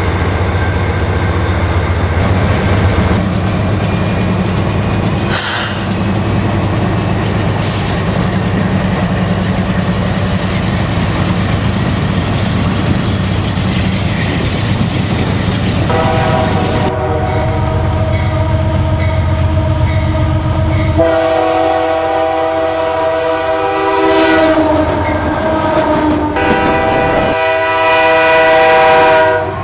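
Diesel freight locomotives passing close, their engines running with a heavy low hum. From about halfway, locomotive air horns sound long chords that continue, with short breaks, to near the end.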